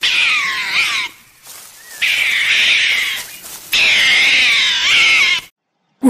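Mongoose giving high-pitched, wavering calls in three long bouts, the last cutting off suddenly about five and a half seconds in.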